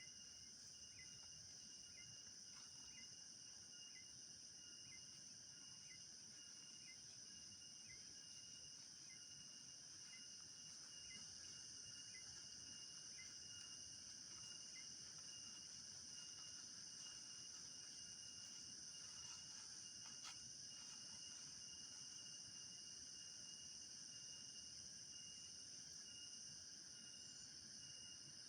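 Faint, steady chorus of crickets and other night insects, a high continuous trilling. For the first dozen seconds a separate chirp repeats about every half second. A single faint click comes about twenty seconds in.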